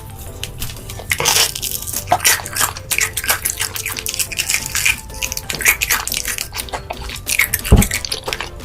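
Close-miked eating sounds: wet chewing, crunching and slurping of food in quick irregular bites, with one heavier thud near the end. Faint background music runs underneath.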